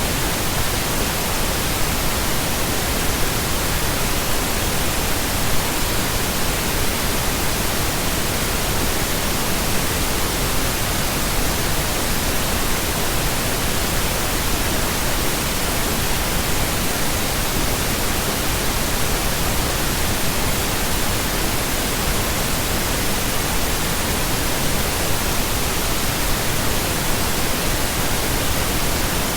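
Steady, unchanging pink noise: an even hiss spread across all pitches, without breaks or events.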